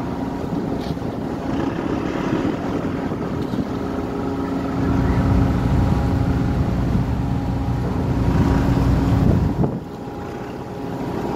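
Ship's engine running steadily, a low hum with a constant tone, with wind buffeting the microphone. The wind gets louder about halfway through and cuts off suddenly near the end.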